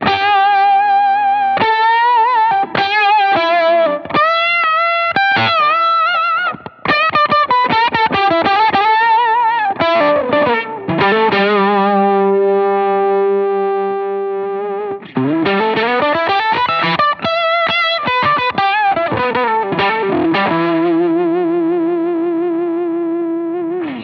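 Electric guitar through fuzz and vibe pedals (Fulltone OctaFuzz and Mini DejaVibe), playing a distorted lead line with string bends and vibrato. A chord rings out in the middle, a run of slides follows, and a held note near the end wavers with a steady pulsing.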